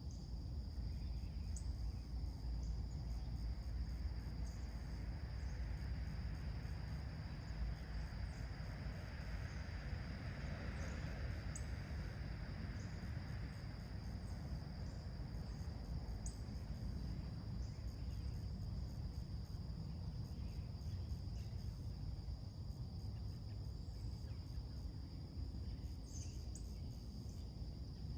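Steady, high-pitched insect chorus, typical of crickets on a late-summer morning, over a low steady rumble. Scattered short, high bird chirps come through it, and a soft hiss swells and fades around the middle.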